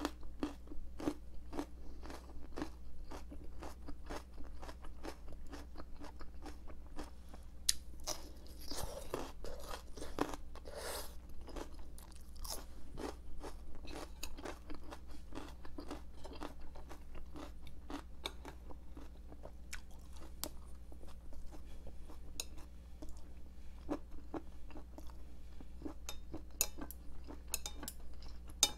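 Close-miked crunching and chewing of bell pepper (paprika), a steady run of crisp bites and chews.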